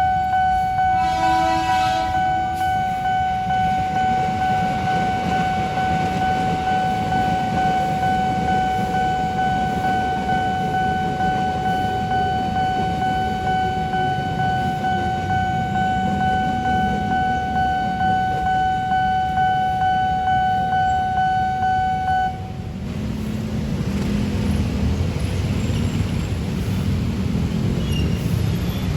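Nippon Signal electronic level-crossing warning bell ringing steadily over the rumble of a passing train, with a short train horn blast about a second in. The crossing bell stops about 22 seconds in while the train rumble continues, then the bell starts again at the very end.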